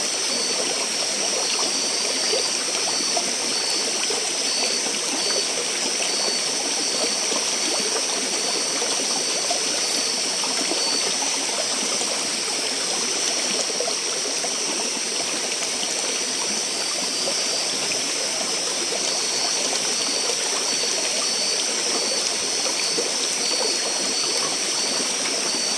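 Steady rush of flowing stream water, with a constant high-pitched insect buzz and a fast pulsing trill over it.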